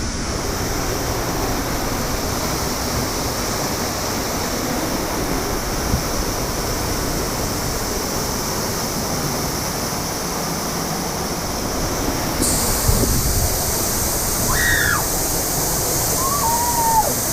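Waterfall rushing, a steady dense noise of falling water close by.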